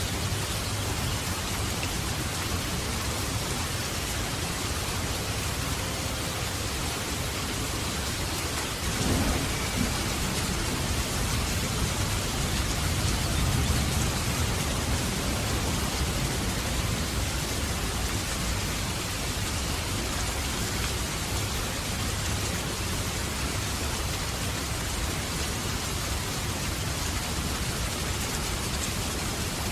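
Steady hiss like heavy rain falling, with a low rumble that swells about nine seconds in and eases off after about fifteen seconds.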